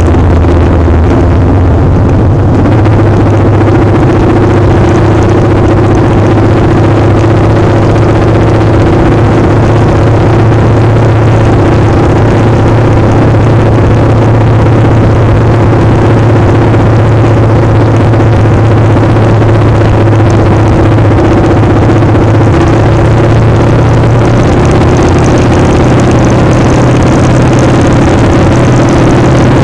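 Motorcycle engine running at steady revs, with loud wind rush on the microphone.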